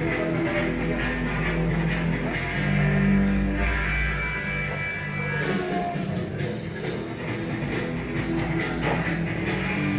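Classic rock music on a radio station broadcast, with guitar and drums.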